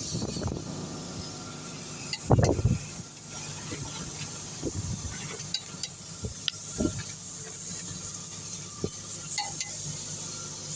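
Scattered sharp clicks and knocks of tools handled during engine teardown work, over a steady faint background hum. There is one louder dull knock about two seconds in.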